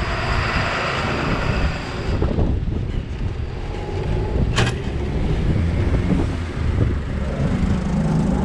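Riding noise from a bicycle-mounted GoPro: a steady rumble of wind on the camera and tyres on the street, with one sharp click about halfway through.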